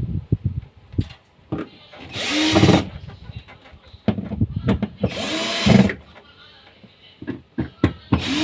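Electric drill driving screws in three short runs, the motor whining for about a second, then nearly two seconds, then again near the end, with clicks and handling knocks between the runs.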